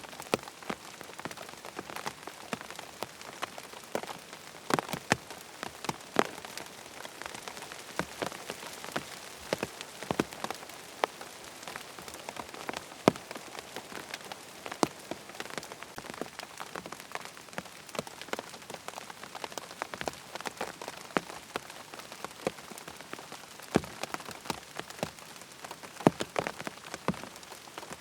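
Steady rain falling on a tent, a constant hiss with many irregular sharp drop taps on the fabric.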